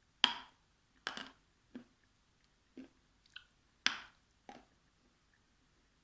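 Close-miked mouth sounds of eating zefir: about seven sharp, wet smacks and clicks of biting and chewing, the loudest about a quarter second and four seconds in.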